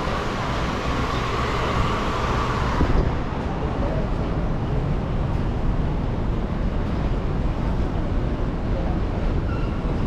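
Train in motion: a steady running noise, strongest low down, with a higher hum that fades out about three seconds in.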